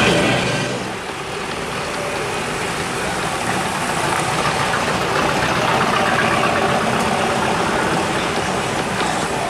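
Engines of classic American cars and a square-body Chevrolet pickup running steadily as they cruise slowly past, one after another.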